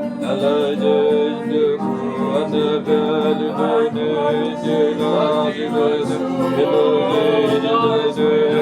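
Guitar and keyboard playing a slow worship instrumental: steady held chords underneath, with the guitar picking quick melodic runs and bent notes over them.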